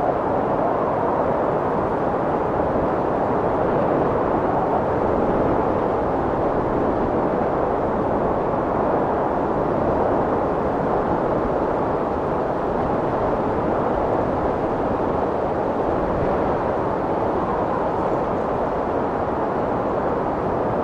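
Strong wind blowing steadily, a dense rushing noise without distinct gusts.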